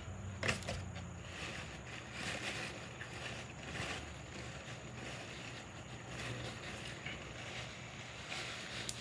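A person chewing a sandwich close to the microphone, with wet mouth and smacking sounds coming in irregular soft bursts and a sharp click about half a second in.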